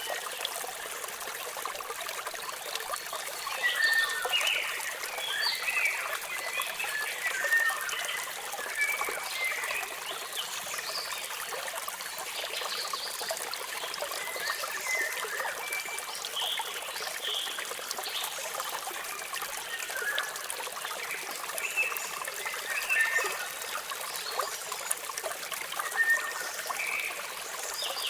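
Steady trickling and splashing of falling water, with birds chirping over it in short scattered calls, busiest a few seconds in and again near the end.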